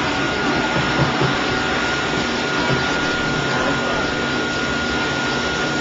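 Dog blow dryer running steadily: a constant rush of air with a thin, steady high whine from the blower motor.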